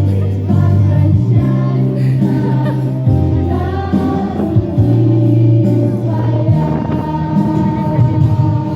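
A girls' school vocal ensemble singing together over an instrumental accompaniment with a steady bass line.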